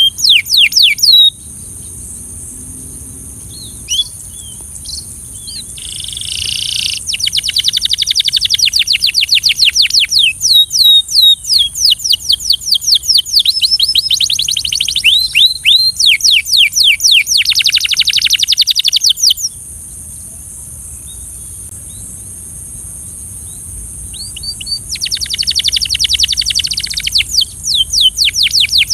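Belgian canary singing in long, rapid trills of quickly repeated sweeping notes, with a few scattered single notes at first and a pause of about five seconds past the middle before the trills start again.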